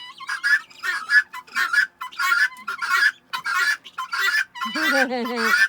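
Guinea hens calling over and over in short, harsh notes, about two to three a second. This is the female guinea fowl's chatter. About three-quarters of the way through, a lower, drawn-out bird call with a falling pitch joins in.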